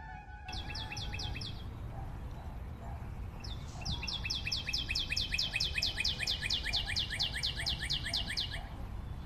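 A songbird singing. A short run of quick, repeated high notes comes first, then a longer run of the same notes at about five a second that lasts about five seconds. A low steady rumble sits underneath.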